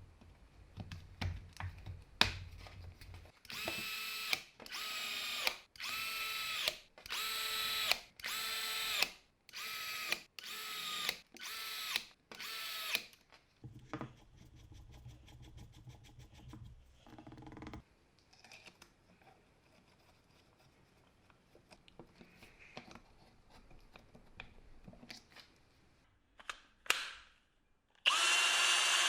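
Milwaukee M18 cordless hammer drill's motor run in about eight short trigger pulls, each spinning up to a steady whine and stopping, then a longer run near the end: the restored drill being tested.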